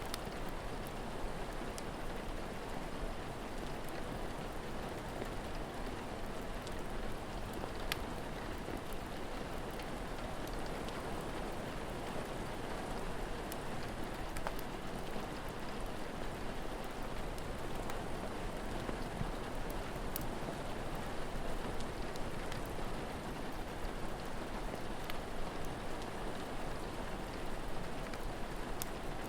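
Steady rain falling, with a few sharp crackles of a wood fire scattered through it.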